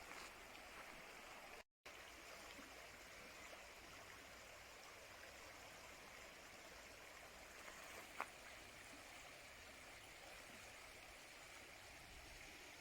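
Faint, steady rush of the Ovens River flowing over its bed, cut off for a moment about two seconds in. A single short, sharp click stands out a little after the eight-second mark.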